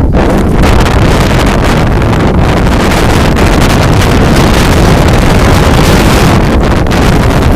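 Blizzard wind blasting the microphone: a loud, constant rumbling roar of wind noise.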